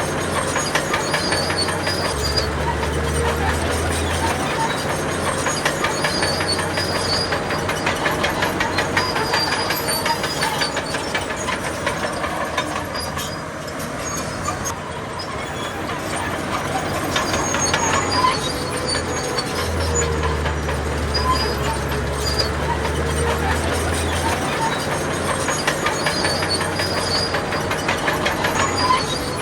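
Crawler bulldozer working: a diesel engine running under a fast, continuous clatter of steel tracks, a little quieter for a few seconds about halfway through.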